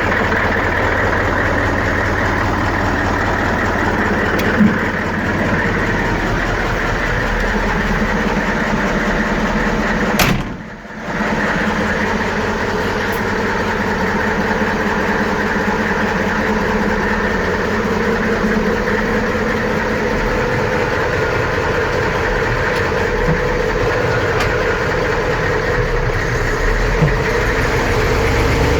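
Magirus Deutz A6500 truck's Deutz F8L614 air-cooled V8 diesel running steadily at idle after a cold start. The sound briefly drops out about ten and a half seconds in, then carries on as before.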